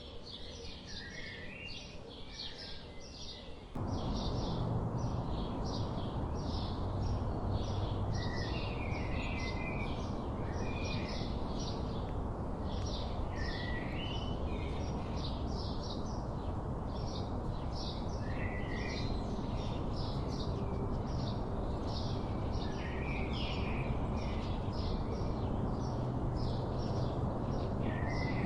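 Wild songbirds chirping, short high chirps repeating about one or two a second, with occasional lower warbled phrases. A steady low rumble comes in suddenly about four seconds in and carries on underneath.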